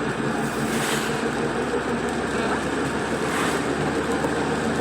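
Steady road and engine noise inside a moving car, with two brief hissing swells about a second and two and a half seconds apart.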